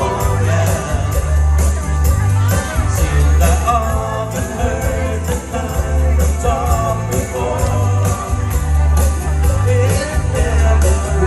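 A band playing a pop-rock song, with a repeating bass line, a melody over it and a steady beat of bright high percussion.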